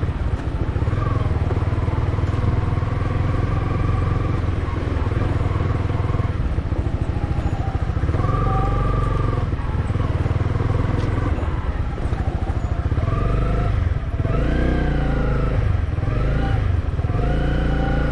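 Motorcycle engine running on an off-road ride, steady at first, then revving up and easing off several times in the second half.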